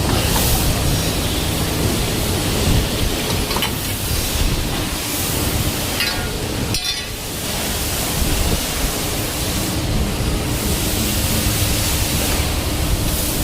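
CNC pipe bending machine at work: a loud, steady noisy running sound with a low hum, broken every few seconds by short hisses.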